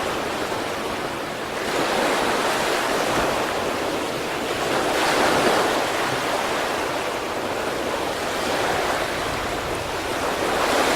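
Sea surf: waves breaking in a continuous wash that swells every three seconds or so.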